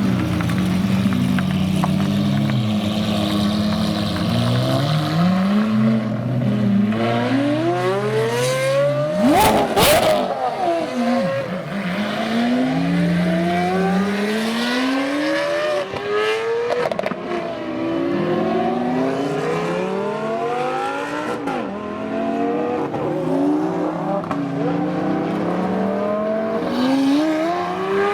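Supercar engines idling, then accelerating hard one after another, the revs rising again and again through the gears. About a third of the way in, one car passes close, the loudest moment, with a sharp crackle.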